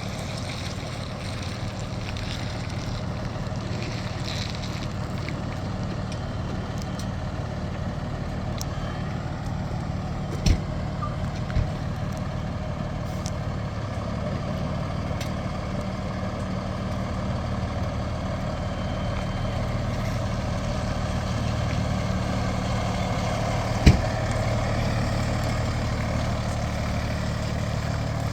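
Heavy emergency vehicle's engine running steadily, a low drone that grows slowly louder. Sharp knocks come about ten and eleven and a half seconds in, and another near twenty-four seconds.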